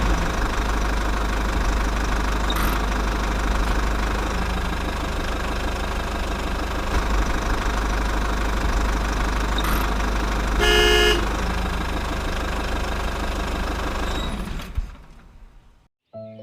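A mini tractor running steadily, with a single short horn toot about eleven seconds in. The running dies away near the end.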